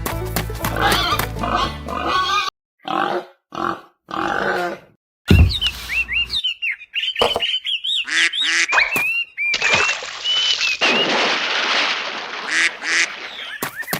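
Background music, then a string of animal sound effects: a few short calls with silent gaps between them, followed by quick chirping bird calls and, near the end, rougher quacking or honking calls.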